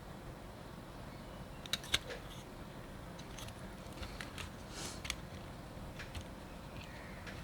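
Faint, scattered small clicks and taps of tools and fingers handling the parts of a disassembled Nikon D90 camera body, with a sharper pair of clicks about two seconds in, over a low steady hiss.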